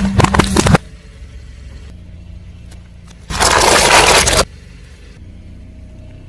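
A car tyre rolling over and crushing objects. A crackling crunch comes in the first moment, and about three seconds in a louder, dense crushing noise lasts about a second, over the low hum of the car's engine.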